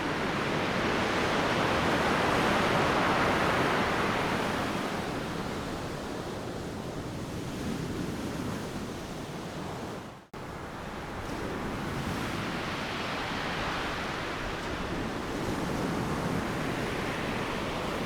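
Ocean waves crashing on a beach: a continuous rush of surf that swells as a wave breaks a couple of seconds in, eases off, and builds again with the next wave. The sound cuts out for an instant about ten seconds in.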